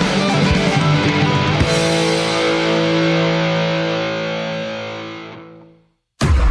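The end of a rock song with distorted electric guitars and drums: the band stops on a final chord, which rings and fades out about six seconds in. A new loud sound starts just before the end.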